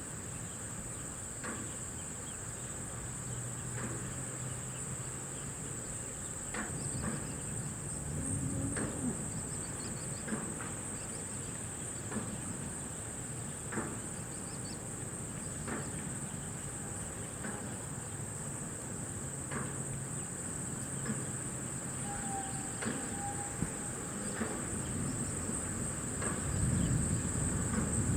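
A steady, high-pitched insect chorus of crickets or similar, with scattered short chirps over it. A low rumble rises near the end.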